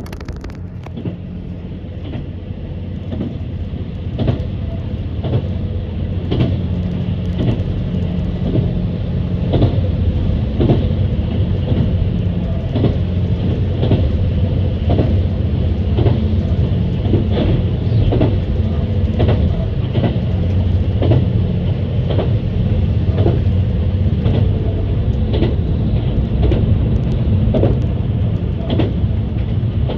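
Diesel railcar running along the track, its wheels clicking over the rail joints in a steady rhythm of about two clicks a second, under a low engine drone. The sound builds over the first few seconds as the train gathers speed, then holds steady.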